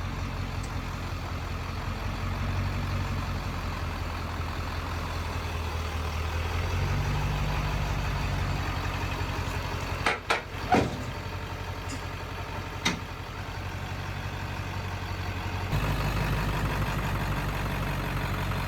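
Diesel pickup truck engine idling steadily, with a few brief sharp clunks around the middle.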